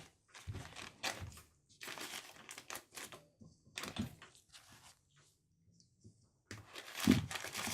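Irregular handling noises from dismantling a small drill press by hand: rustling, scraping and light knocks in short clusters, with a louder rustle about seven seconds in.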